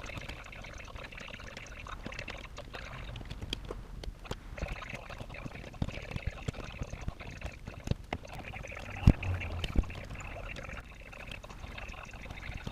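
Electrical wires being handled and twisted together under wire nuts in a ceiling electrical box: irregular rustling and scraping with many small clicks, and one sharp knock about nine seconds in.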